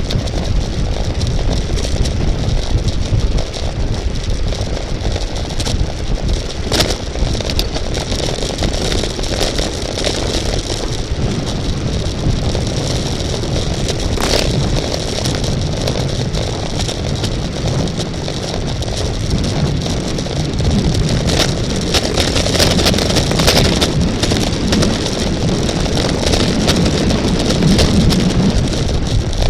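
Steady wind rumble on the microphone of a camera mounted on a racing bicycle in motion, with tyre hiss and occasional clicks and rattles from the bike over the road. It grows a little louder in the last third.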